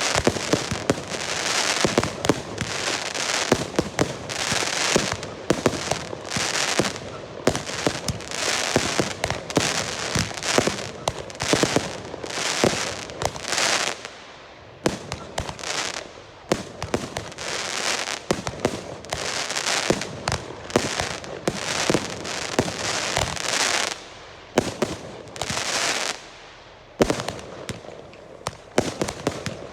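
Girândola fireworks: volleys of rockets going off in rapid succession, a dense, continuous stream of bangs and crackles with hissing rushes about once a second. The barrage thins slightly near the end, with one sharp bang standing out.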